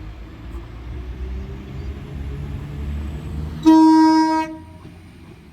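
Class 195 diesel multiple unit pulling away with a low rumble that builds, then sounding its horn once, a short blast of a little under a second, nearly four seconds in.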